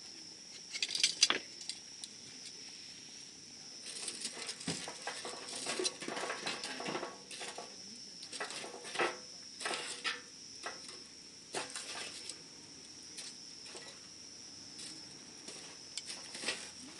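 Wood campfire crackling and popping at irregular intervals, with a sharp pop about a second in and a busier run of crackles in the middle. A steady high-pitched hiss runs underneath.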